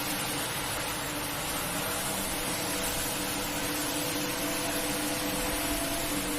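A steady electric motor hum with a constant hissing rush over it, unbroken throughout: machinery running during the washing of a carpet.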